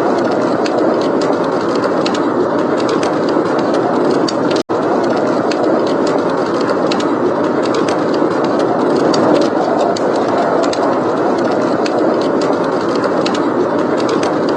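Steady blizzard wind blowing hard, with a wood fire crackling and popping in small sharp clicks throughout. The sound drops out for an instant about a third of the way in.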